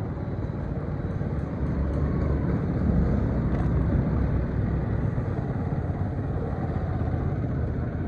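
Steady low rumble of a vehicle travelling on the road, swelling slightly about three seconds in.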